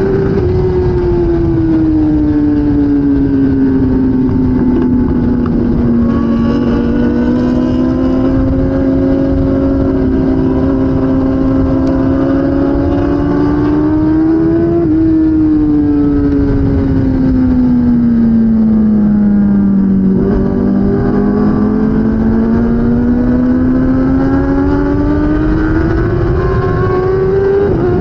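2016 Kawasaki ZX10R's inline-four engine running hard under way, its revs sinking and climbing slowly over several seconds, with wind rushing past. The pitch breaks briefly about halfway through and again near the end.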